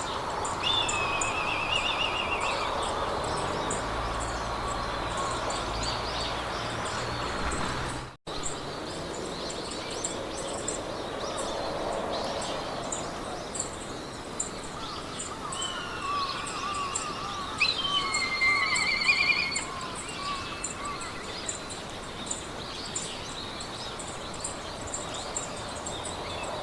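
Meadow ambience of birds singing in short warbling, trilling phrases, near the start and again later, over a steady high rhythmic insect chirping and a wind-like hiss. The sound cuts out for an instant about eight seconds in.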